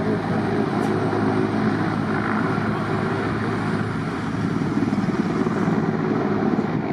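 Aircraft engines running steadily, a continuous mechanical noise with low tones that waver slightly.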